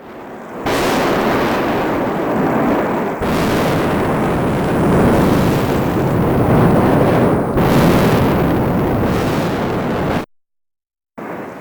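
Mount Etna erupting: loud, continuous, dense eruption noise from a fire fountain, which cuts to dead silence about ten seconds in and comes back quieter.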